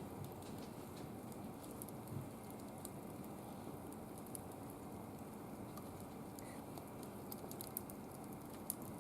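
Wood fire burning in a barbecue grill, with a steady low rush and scattered small crackles and pops, more of them near the end.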